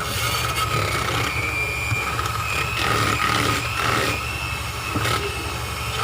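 Electric hand mixer running, its motor whining steadily as the beaters work cream cheese and sugar, with a few short knocks against the bowl.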